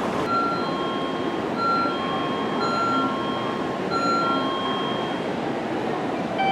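Tokaido Shinkansen train moving along the station platform: a steady rumble with short high tones that come and go repeatedly over it.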